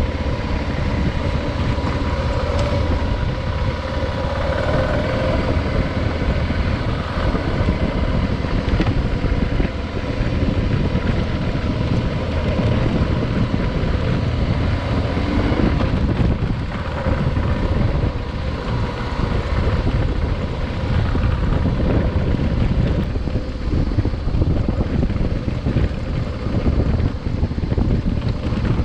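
Adventure motorcycle under way, its engine running steadily beneath heavy wind buffeting on the microphone.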